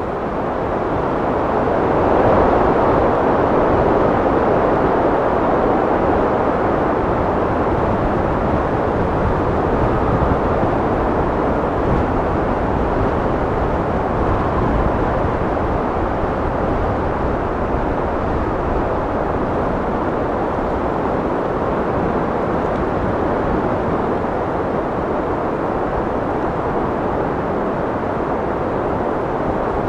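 Wind blowing steadily, a low rushing noise that swells a couple of seconds in and then holds.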